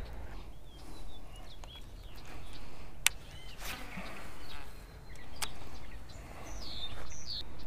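Small birds chirping in short, scattered calls, over a steady low rumble of wind on the microphone. A few sharp clicks come in the middle.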